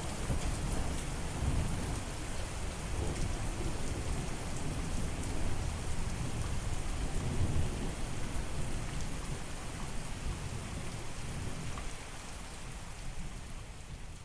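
Steady rain with low rolling thunder rumbling underneath, swelling about halfway through and easing slightly near the end.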